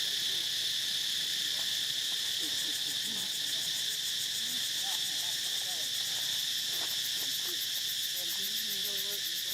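Steady, high-pitched drone of an insect chorus, with faint, short wavering calls scattered underneath.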